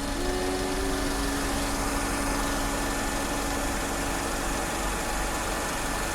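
Bus engine idling steadily just after start-up, warming up, with a steady low hum.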